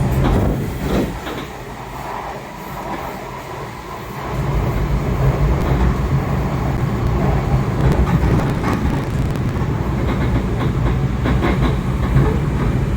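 Kawasaki 7000-series Metrorail subway car running on the rails, heard from inside the car: a steady rumble of wheels and track with a low, even hum. It drops slightly for the first few seconds, then grows louder about four seconds in and stays there.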